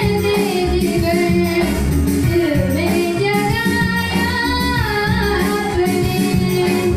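A song: a high singing voice holds and bends long notes over a full musical backing with a steady beat.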